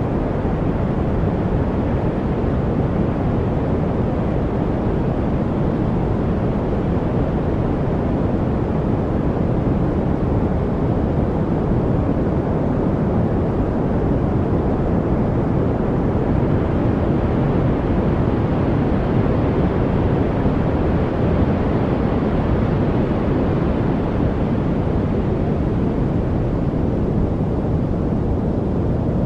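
Steady, unchanging deep rushing noise, much heavier in the low end than the highs, like brown noise, with no separate sounds in it.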